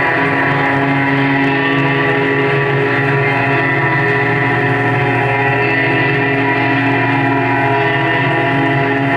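Live amplified band playing a sustained drone: a dense cluster of many held tones, steady and unbroken.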